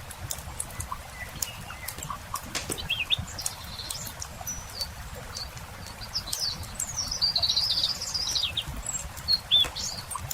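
Campfire crackling with scattered sharp pops over a low rumble, while small songbirds chirp. A longer warbling bird phrase sounds from about six and a half to eight and a half seconds in, and short chirps come near the start and near the end.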